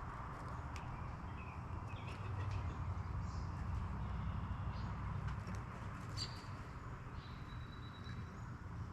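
Songbirds at a feeder giving a few short, faint chirps, with a thin held whistle about seven seconds in, over a steady low rumble.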